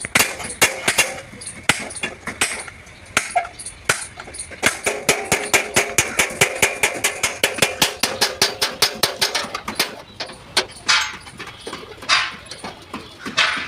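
Hammer blows on the sheet-steel panels of a Tata truck cabin during dent repair: a run of sharp metallic strikes, quickening to about four or five a second in the middle, with the panel ringing under them. A few single, heavier blows come near the end.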